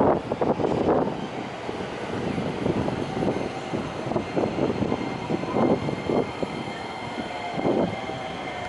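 A train running along the track: an uneven rumble that rises and falls, with a faint steady high whine above it.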